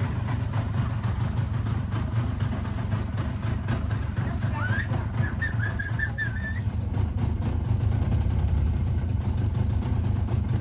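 An engine running steadily with a low hum. About four and a half seconds in, a brief high, wavering tone sounds over it for about two seconds.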